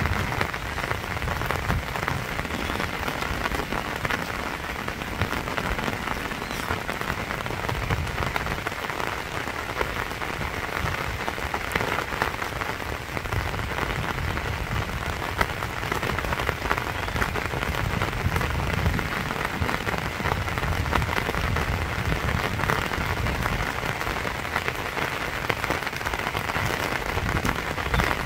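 Steady rain falling on a lake's open water and lily pads, a dense, even patter of drops.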